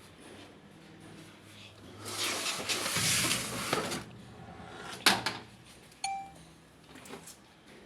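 Working on a washing machine: about two seconds of hissing, rustling handling noise, then a sharp click, and then a single short electronic beep, the kind a washing machine's control panel gives.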